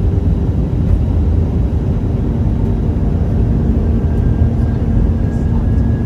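Airbus A319 airliner noise: a steady low rumble of jet engines and airflow, with a faint steady hum joining about two seconds in.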